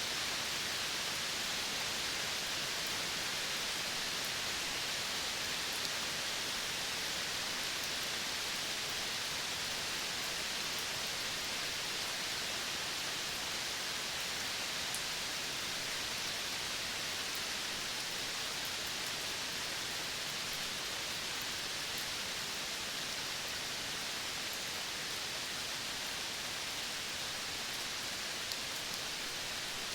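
Steady, even hiss of a tropical forest's natural ambience, with a few faint high ticks now and then.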